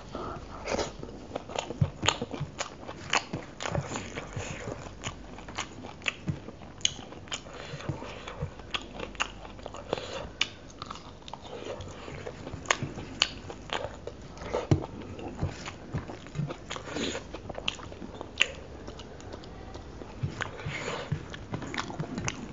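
Close-miked eating sounds of rice and chicken curry eaten by hand: chewing with many wet mouth clicks and smacks, irregular and continuous, with fingers gathering rice on a steel plate.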